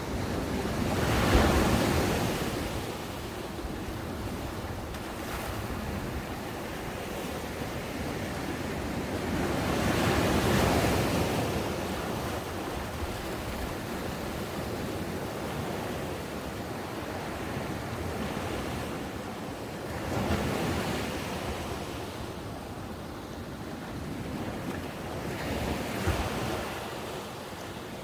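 Ocean waves breaking on a beach, a steady wash of surf that swells as waves break about a second in, around ten seconds in, around twenty seconds in and again near the end, with some wind on the microphone.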